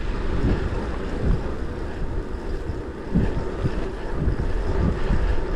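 Wind buffeting the microphone of a rider on a moving e-bike: a gusty low rumble that rises and falls.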